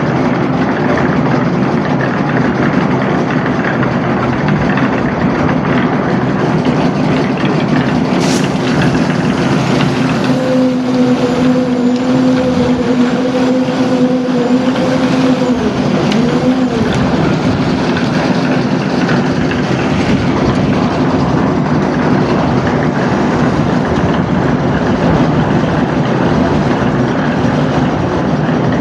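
Construction machinery running steadily and loudly. About ten seconds in a steady whine joins it; it wobbles and then drops away about six seconds later.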